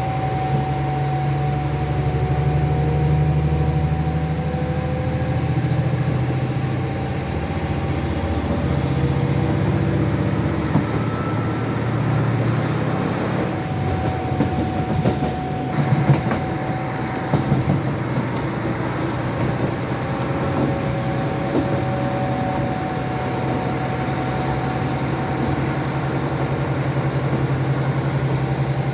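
KiHa 40 diesel railcar's DMF13HZI turbocharged six-cylinder diesel engine working under power as the railcar pulls away from a station, a steady drone whose pitch shifts several times. A few sharp clacks come through about halfway in.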